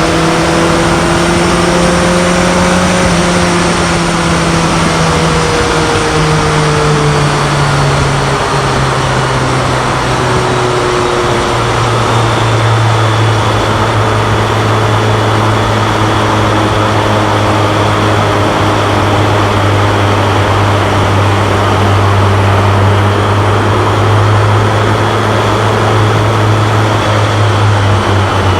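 BMW K1100LT's inline-four engine running under way on the motorcycle, with wind rush. The engine note steps down in pitch about six and twelve seconds in, like upshifts, then holds a steady lower pitch.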